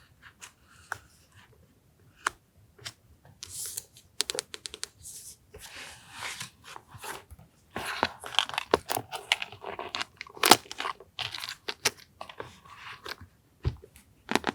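Paper being handled for collage journaling: irregular rustling and crinkling with sharp clicks, sparse at first and busiest from about the middle on.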